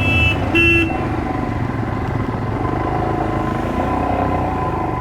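A horn blast cutting off about a third of a second in, then one short toot just after. Motorcycle engines run underneath throughout, their note rising and falling as the riders move off.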